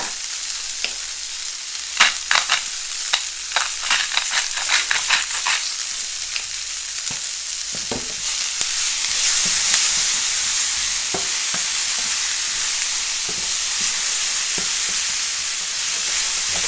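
Sliced onion rings sizzling in oil in a frying pan as they are stirred with a wooden spatula. A quick run of clicks and taps comes about two to five seconds in, and the sizzle grows louder from about eight seconds in.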